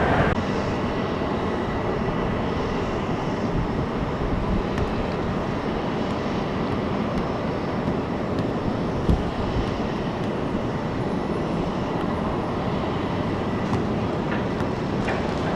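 Jet aircraft engines, a steady rumbling roar with no clear tones. There is a brief knock about nine seconds in.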